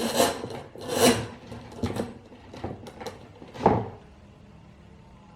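About five rough scraping, rubbing strokes about a second apart, the last one the loudest, as parts of a telescopic front fork are worked by hand.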